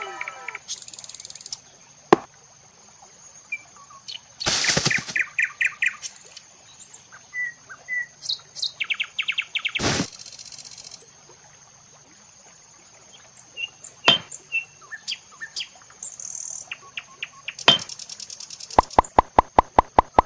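Small-scale handiwork noises: scattered sharp clicks and taps with short scraping bursts, and a quick run of evenly spaced ticks near the end, over faint bird chirping and a steady high insect-like tone.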